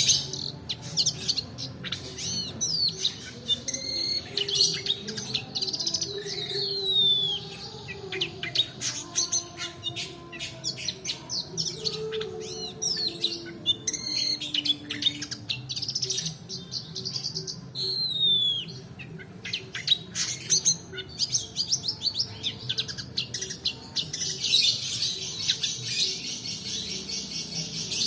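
Long-tailed shrike singing a fast, varied chattering song: rapid clicking notes and short falling whistles, breaking into a dense buzzing trill near the end.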